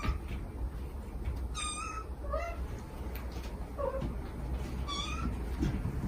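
A mother cat and her kittens calling: two high-pitched kitten mews, about a second and a half in and near the end, with two lower, shorter calls between them, over a low steady hum.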